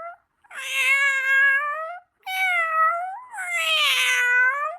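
A domestic cat meowing: three long, drawn-out meows, the last two running almost into each other.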